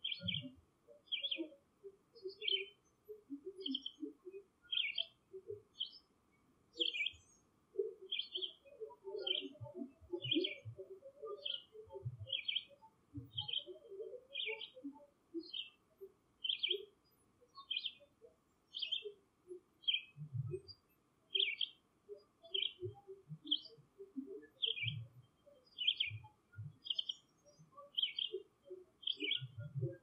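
A bird repeating a short high chirp a little more than once a second. Beneath it are softer, lower squeaks and chirps that come in clusters, busiest in the middle, and a few low thumps.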